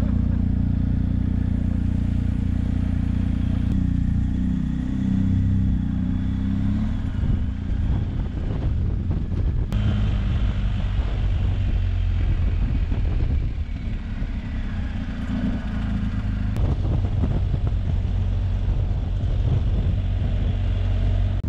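BMW R 1250 GS Adventure's boxer-twin engine running as the motorcycle is ridden, its pitch dipping and rising again a few seconds in and shifting around the middle.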